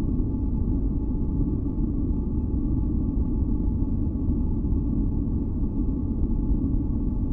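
Generated masking noise for sleep: a steady, deep rumbling hiss weighted toward the low end, with two faint steady tones held above it and no change throughout.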